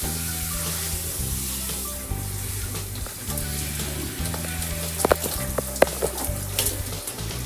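Shower spray hissing steadily over a low background music bass line, with a few short sharp sounds about five to six seconds in.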